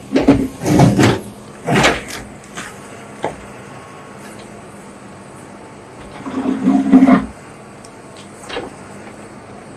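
Excavator demolishing a brick house: bursts of crashing and scraping of breaking masonry in the first two seconds and again around six to seven seconds in, over a steady low hum.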